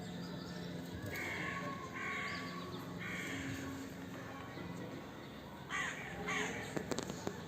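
A crow cawing: three harsh caws about a second apart, then a few shorter calls about six seconds in.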